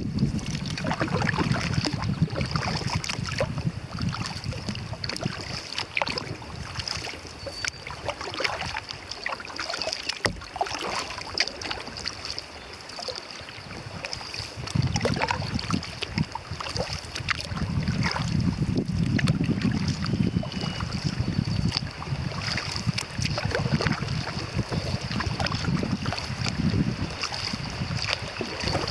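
Kayak paddles dipping and splashing in the river water, with wind buffeting the microphone in gusts that die down in the middle and pick up again about halfway through.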